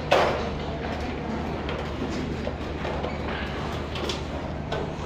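Sheet-metal duct work: one sharp knock just after the start, then light scattered knocks and clatter over a steady low machine-like hum.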